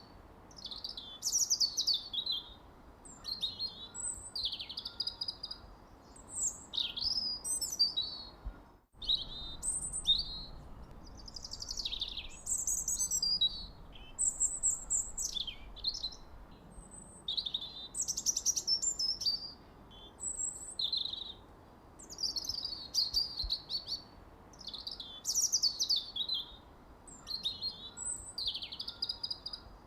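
A songbird singing and chirping in short, high, quick phrases of sweeping notes, one phrase every second or so with short pauses between, over a faint steady hiss. The sound cuts out for a moment about nine seconds in.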